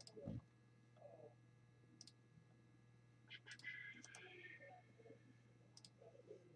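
A few faint, sharp computer-mouse clicks spaced out over a low steady electrical hum; otherwise near silence.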